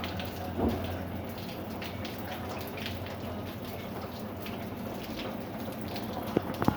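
Rain falling, with individual drops ticking on a hard surface over a steady patter. A louder thud comes about a second in, and two sharp knocks near the end.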